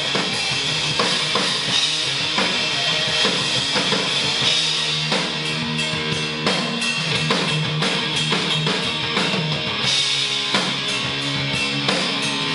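Live heavy rock band playing an instrumental passage between vocal lines: distorted electric guitars, bass and a pounding drum kit.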